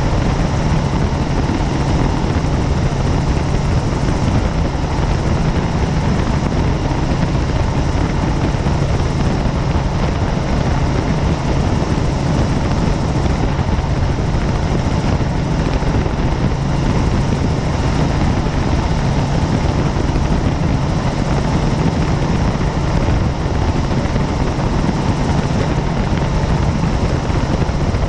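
Helicopter in steady flight, heard from on board: a loud, constant drone of rotor and engine noise with a steady low hum.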